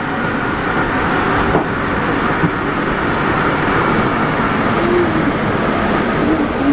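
Steady running noise of a rubber-tyred Alstom NS-74 metro train: a dense, even rumble with a few faint tones.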